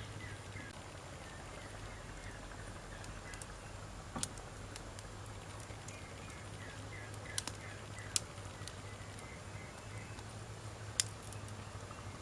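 Wood campfire burning, with sharp crackles and pops every second or few over a steady low background.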